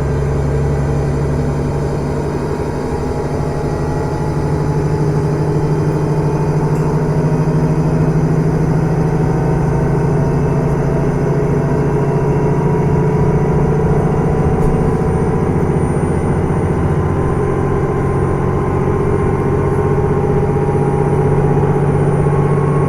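Running sound heard inside a KiHa 110 series diesel railcar (car KiHa 112-3) on the move: the underfloor diesel engine drones steadily together with wheel and rail noise, at a near-constant speed.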